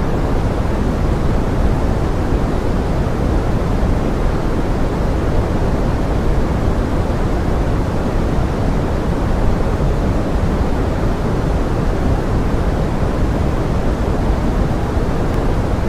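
Steady pink noise blended with rain: a constant, even hiss weighted toward the low end, with no distinct drops, tones or changes.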